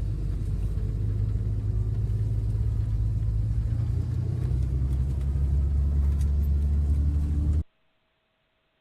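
Low engine and road rumble of a moving vehicle, steady, its low note changing about four seconds in. It cuts off abruptly near the end, leaving near silence with a faint hum.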